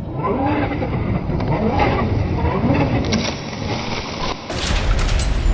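A vehicle engine revving up and down in repeated swells. The sound changes abruptly about four and a half seconds in.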